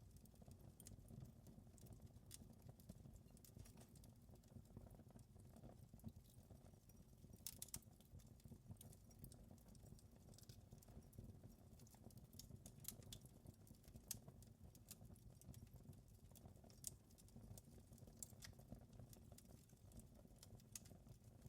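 Wood fire crackling faintly, with irregular sharp pops and snaps over a low steady rumble.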